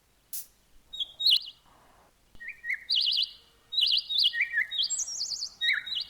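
Birds chirping: short warbling notes at a few different pitches, a couple at first, then nearly continuous and overlapping from about two and a half seconds in.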